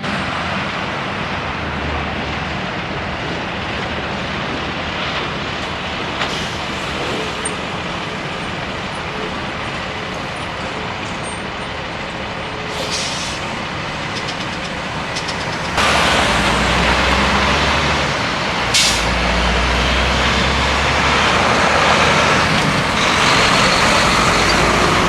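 Road traffic going by, then a Peterbilt semi-truck with a trailer passing close from about two-thirds of the way in, its diesel engine rumbling low and loud. A short sharp hiss of air brakes comes soon after it arrives.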